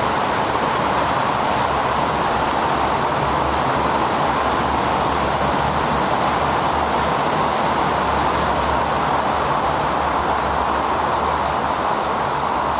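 Steady rushing wind and road noise from a bicycle riding along wet streets in the rain, with a low rumble underneath.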